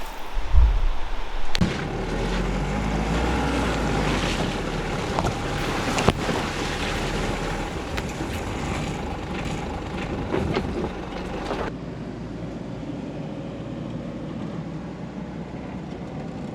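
Rushing river water with wind buffeting the microphone, a low rumble under a steady hiss, with a few faint clicks. The sound changes abruptly about a second and a half in and again past the middle, getting quieter the second time.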